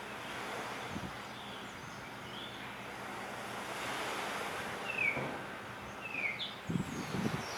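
Steady surf and wind noise, with a few faint, short, descending whistled notes from a singing blue rock thrush. Low buffeting from wind on the microphone near the end.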